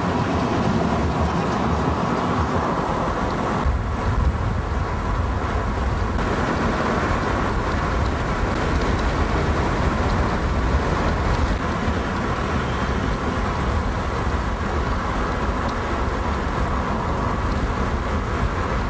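A car driving: steady road and engine noise with a low rumble that grows stronger about four seconds in.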